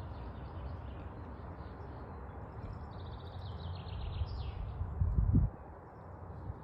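Light wind in a forest rumbling on the microphone, with a songbird singing a run of repeated notes that ends in a quick falling trill. About five seconds in, a stronger gust buffets the microphone.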